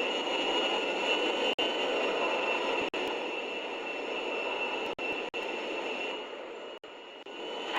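Steady aircraft engine noise, a rush with a high whine over it, broken by several very brief dropouts.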